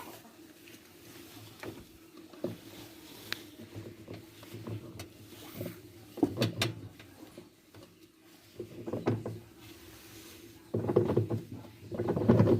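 Plastic knocking and scraping as a top-loading washing machine's pulsator is wiggled loose from its shaft: scattered clicks at first, then longer rattling runs near the end.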